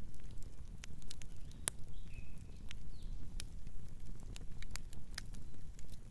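Wood fire crackling, with a low steady rumble of flames and irregular sharp pops and snaps. A faint bird chirps twice a little after halfway.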